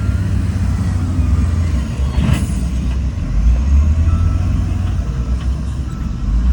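Heavy diesel earthmoving machinery running with a steady deep rumble, with a short hiss about two seconds in.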